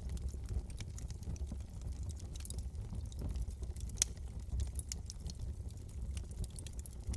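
Wood fire burning in a fireplace: a steady low rumble of flames with frequent small crackles and pops, one sharper crack about four seconds in.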